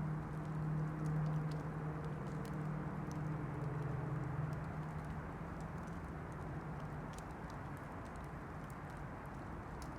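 Campfire burning, with a steady rush and irregular small crackles and pops. A low steady hum runs under it and fades out about halfway through.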